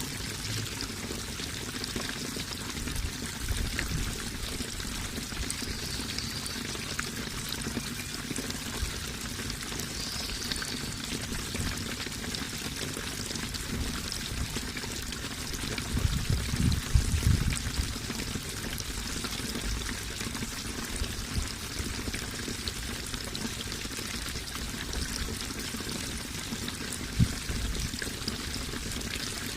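Running water rushing and trickling steadily, with a louder low surge about halfway through lasting a couple of seconds, and one brief thump near the end.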